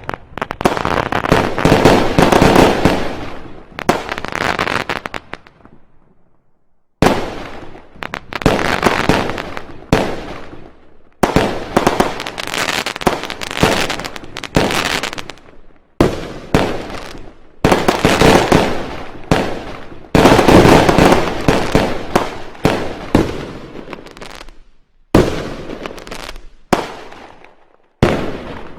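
Fireworks going off in rapid volleys of many sharp bangs and crackles, with a short pause about six seconds in and briefer lulls between barrages later.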